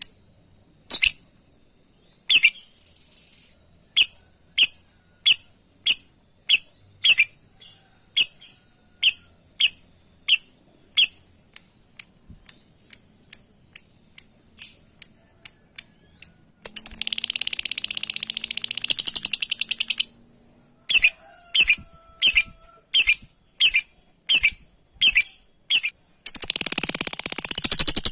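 Lovebird giving shrill contact calls to a companion: sharp, high chirps repeated about once or twice a second, quickening as they go. Twice they break into a few seconds of rapid, continuous chattering.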